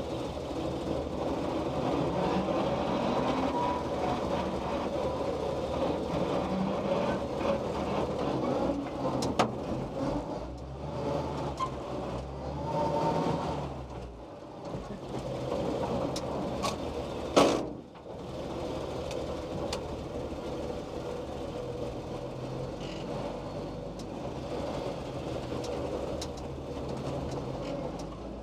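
The 1946 Dodge WFA-32 truck's stock 236.6 cu in flathead six runs under way. The engine note rises and falls, with a brief lull about halfway. About two-thirds of the way in there is one sharp, loud clack.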